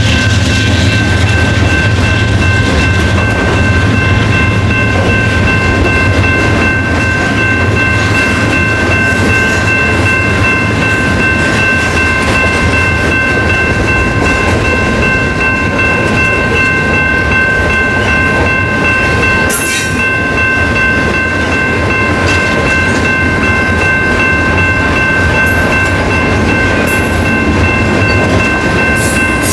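Freight train rolling past, a steady rumble of cars and wheels with a few sharp clanks. A steady high whine of several pitches holds over it the whole time.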